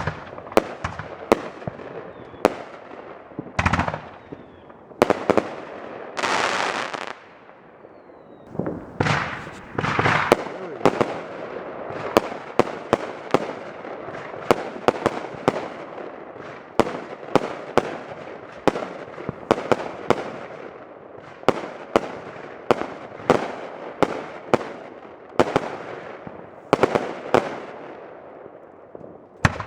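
Consumer firework cakes going off in a rapid series of sharp bangs, launch thumps and aerial reports. A hissing stretch comes about six seconds in, and the bangs come thick and fast from about twelve seconds in.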